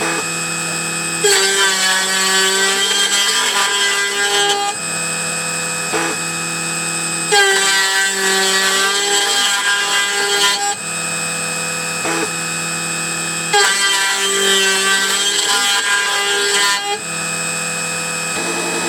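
Snapmaker 2.0 A350 CNC spindle milling. Its steady whine is joined three times by a rougher cutting sound lasting about three seconds, roughly every six seconds.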